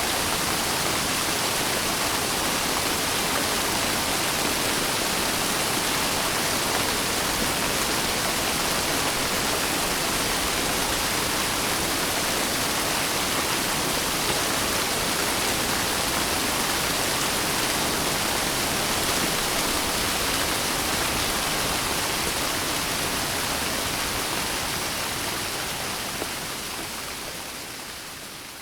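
Steady heavy rain, a dense even hiss, fading out over the last several seconds.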